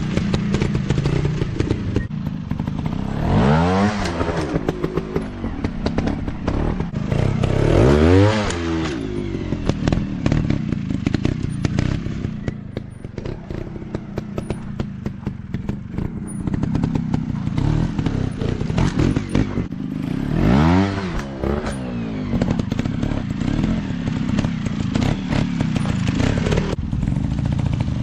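Dirt bike engines running, revved up hard and let fall four times, with a rattling, crackling clatter throughout.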